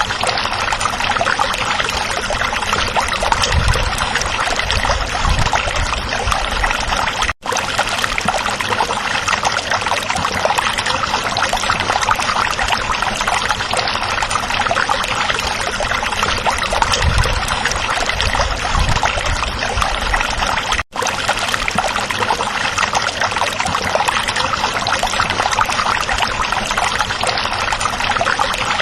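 Creek water flowing steadily, a dense, even rush and babble. It cuts out for an instant twice.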